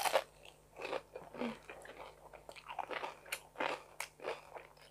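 A crisp bite into a fried lumpiang Shanghai spring roll at the start, followed by close-up crunchy chewing of the fried wrapper in irregular bursts.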